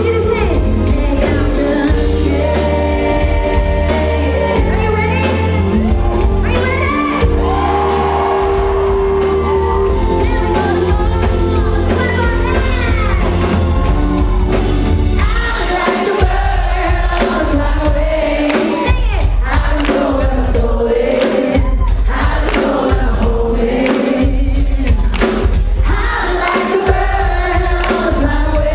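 Live pop music from a concert: a woman singing lead over a band, recorded from the audience. About halfway through, a steady drum beat comes in under the singing.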